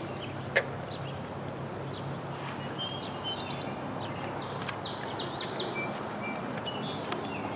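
Outdoor pond-side ambience: small birds chirping in short repeated calls over a steady background hiss and a thin, steady high hum, with one sharp click about half a second in.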